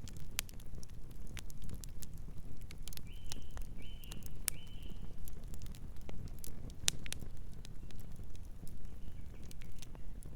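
Campfire burning, with a steady low rumble of flames and sharp crackles and pops at irregular intervals. A night bird gives three short calls about three seconds in, and two fainter ones near the end.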